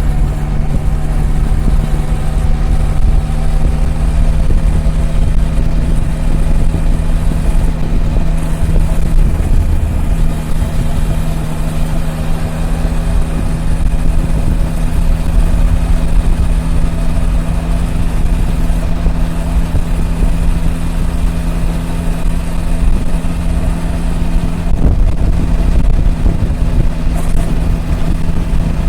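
Triumph Tiger 1050's inline three-cylinder engine running at a steady cruise, its note holding an even pitch, with a low rumble underneath; the note changes slightly near the end.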